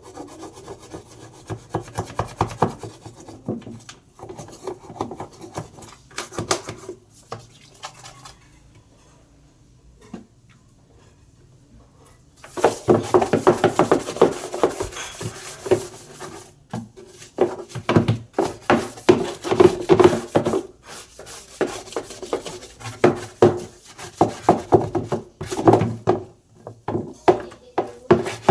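Rapid scrubbing strokes on the parts of a twin-tub washing machine being cleaned. They pause for a few seconds about eight seconds in, then resume louder and faster.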